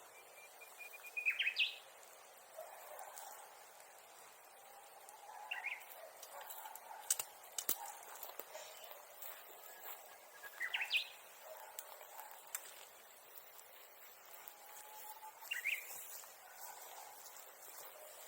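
A bird calling in short, quickly rising notes, four times about five seconds apart. A few sharp clicks fall between the calls, about seven seconds in.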